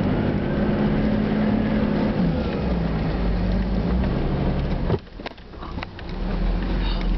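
Off-road 4x4 vehicle engine running steadily under load, heard from inside the cab while driving over soft sand. About five seconds in the engine sound drops away suddenly for a second or so, with a few knocks and rattles, as the vehicle tips over a dune crest, then builds back up on the way down.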